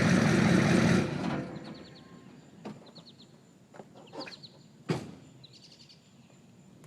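GM 6.5-litre V8 diesel idling, then shut off about a second in, running down and falling silent. Then birds chirping, a few light clicks, and a single sharp knock.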